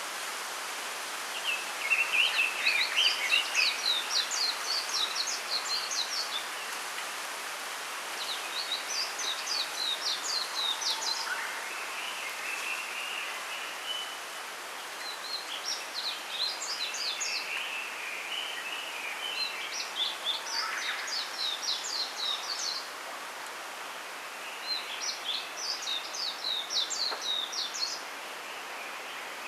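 Small songbirds singing in a bamboo grove. One bird repeats a phrase of rapid, quick-falling high notes every four to six seconds, and lower twittering comes between the phrases. A steady hiss runs underneath.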